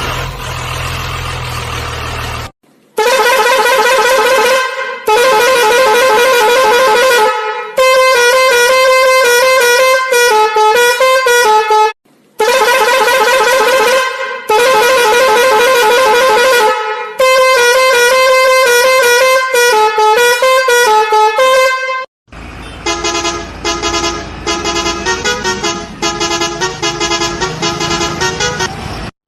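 A musical vehicle horn playing a tune: two long held notes followed by quickly changing notes, the whole phrase heard twice, then a different, faster pulsing horn melody. For the first couple of seconds an engine runs before the horn starts.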